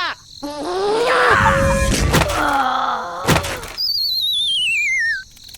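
Cartoon-style sound effects: a vocal sound bending up and down in pitch with two thuds about two and three seconds in, then a wobbling whistle that slides down in pitch for about a second and a half and cuts off suddenly.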